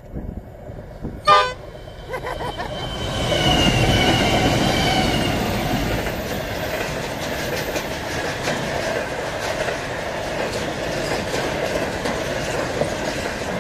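A freight train's horn gives one short blast about a second in. The diesel locomotives then pass close by, louder for a few seconds, with a whine falling in pitch as they go. After them comes the steady rumble and clickety-clack of the wagons rolling over the rail joints.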